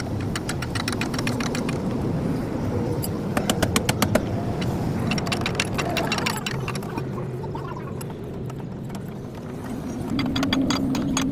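An engine running steadily, with a string of sharp clicks and knocks over it that are loudest about three to four seconds in. The engine note grows stronger near the end.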